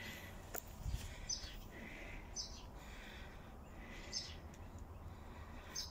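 Small birds chirping: short, high, faint calls every second or so.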